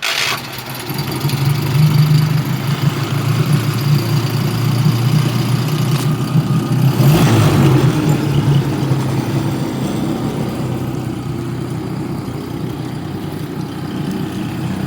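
2002 Nissan 18 hp four-stroke outboard motor firing right up at the very start and then running steadily at idle. There is a brief noise about seven seconds in.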